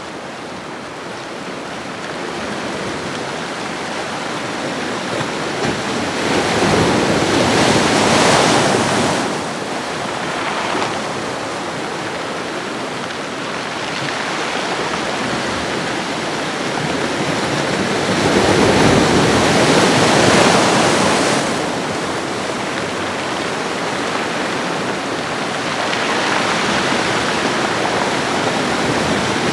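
Ocean waves breaking on a shore: a continuous wash of surf that swells into a louder breaking wave about every ten seconds, three times, then ebbs back.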